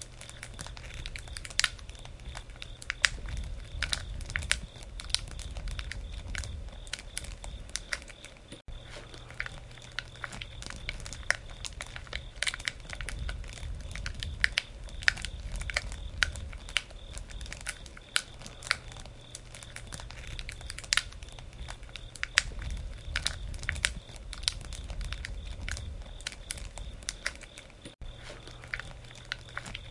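Wood campfire crackling, with frequent irregular sharp pops and snaps over a low, swelling rumble of the flames.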